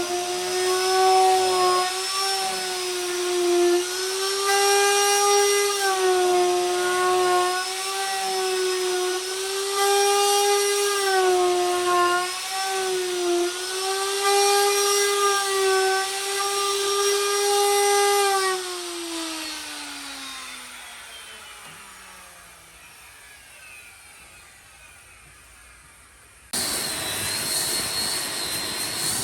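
Electric power tool motor running at a steady pitch, sagging briefly every few seconds as if under load, then switched off and winding down in a falling whine. A few seconds later another, higher-pitched tool starts abruptly.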